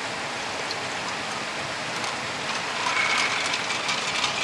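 Steady rush of a mountain valley stream flowing close by. About two and a half seconds in, a brief cluster of light clicks with a faint ringing note rises over it.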